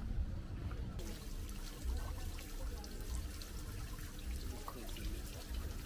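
Water trickling and splashing, with wind buffeting the microphone.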